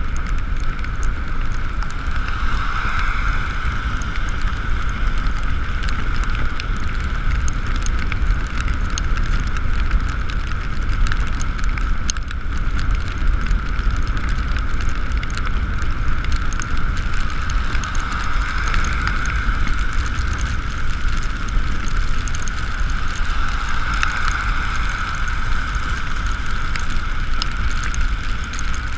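Riding sound from an Ekoway ML5000 electric motorbike in the rain: a steady high electric-motor whine that swells a few times as speed changes, over continuous wind rumble on the camera microphone and wet road hiss.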